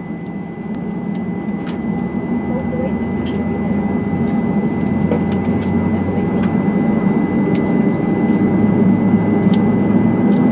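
Airbus A320-211 cabin noise from a window seat: a steady engine and air-system drone with a faint high whine, growing steadily louder, with scattered light ticks.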